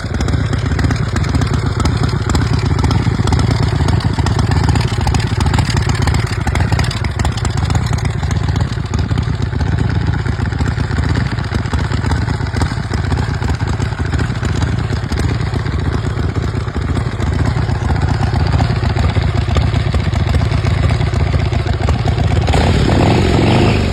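Motorcycle V-twin engine running loudly and steadily with a fast, throbbing beat. The engine is a 127 cubic inch Ultima on a 2010 Kraft Tech custom kit bike.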